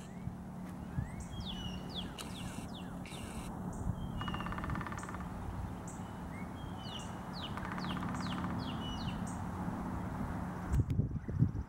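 Songbirds chirping in short sliding notes and buzzy trills over a steady low hum, with a cantering horse's hooves thudding heavily on the turf near the end.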